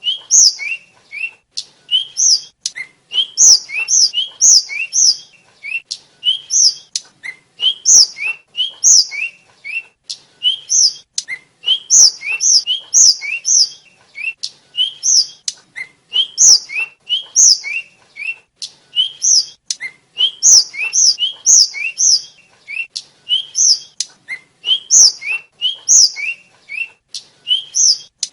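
Tledekan (sikatan) flycatcher singing: short, thin, high whistled notes slurring up and down, strung into quick phrases repeated every second or two, with sharp clicks between them.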